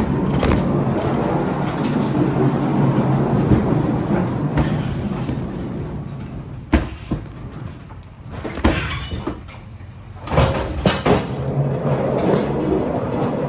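A heavy vehicle's engine running steadily with rattling, easing off partway through, and several sharp knocks or clanks in the second half.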